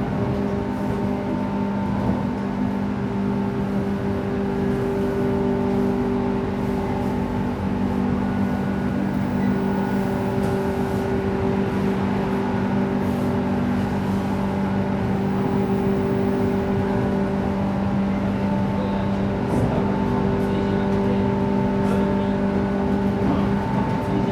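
Running sound heard inside a JR West 117 series electric train: a steady hum from the traction motors and gears over the rumble of the wheels on the rails, holding one pitch as the train runs at a constant speed.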